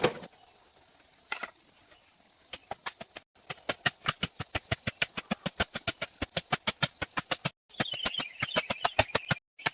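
Rapid, even knocking, about five blows a second, with a steady high-pitched insect drone behind it. A wavering bird call comes in near the end.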